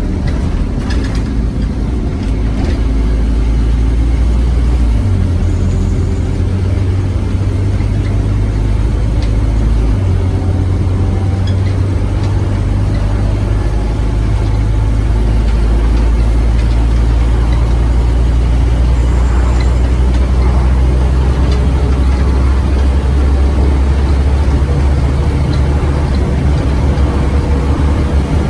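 Scania OmniCity bus engine running hard with a deep, steady drone; its pitch shifts about five seconds in and again about ten seconds in.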